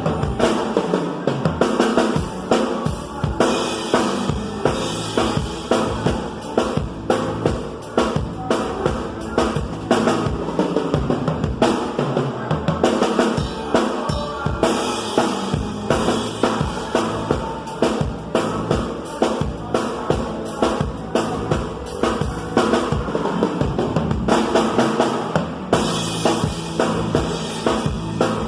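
Live band music driven by a drum kit keeping a steady beat, about two strokes a second, with other instruments underneath.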